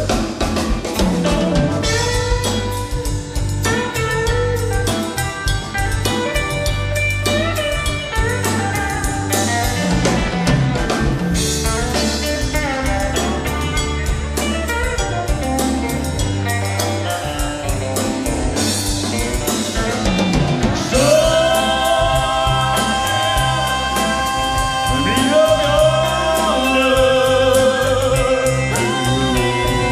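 A live country band plays an instrumental break: an electric guitar solo of quick picked runs over steady bass and drums. Long held chords come in about two-thirds of the way through.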